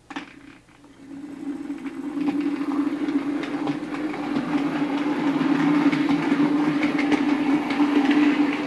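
Bachmann Class 47 OO gauge model diesel locomotive running on the layout track: a steady motor hum with wheels rattling and clicking over the rails. It starts about a second in and grows louder over the next few seconds as the model approaches.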